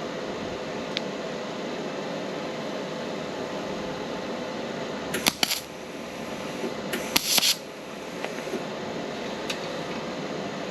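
Two brief TIG tack welds on stainless steel exhaust pipe, each a short crackling burst, about five and seven seconds in, over a steady fan hum.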